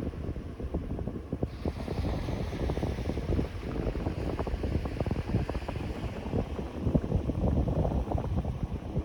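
Sea wind buffeting the microphone in uneven gusts, a loud low rumble, over the wash of surf; a higher hiss of the surf grows louder about a second and a half in.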